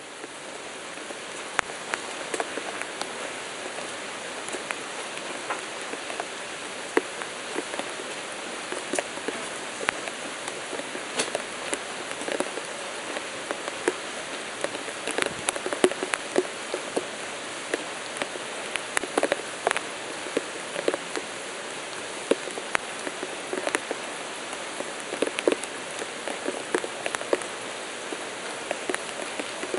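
Rain pattering on a surface: a steady hiss of rainfall with many individual drops striking sharply at irregular intervals. It fades in over about the first second.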